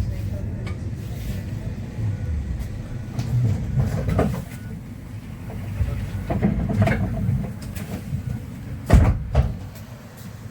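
Inside a Yutong U12 electric city bus on the move: a steady low rumble of the ride with interior rattles and a few clunks, the loudest a sharp knock about nine seconds in.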